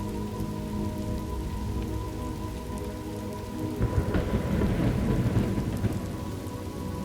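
Thunderstorm ambience: steady rain falling, with a roll of thunder that breaks about four seconds in and rumbles for about two seconds, under a faint steady hum.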